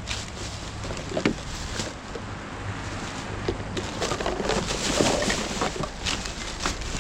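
Rubbish being rummaged through by hand: irregular rustling and clattering of bagged items and plastic toiletry bottles, busiest a few seconds in, over a low steady rumble.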